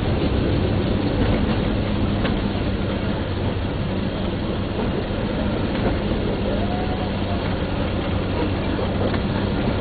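Railway train running, with a steady low engine hum and rumble.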